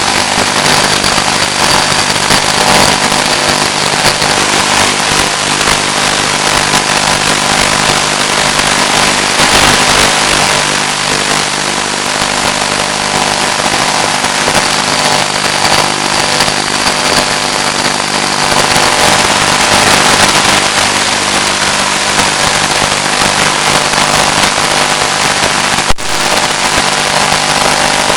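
Steady, loud in-flight noise from a Finwing Penguin FPV model plane's onboard audio: a constant hiss of airflow and motor with a low steady hum. A single sharp click comes near the end.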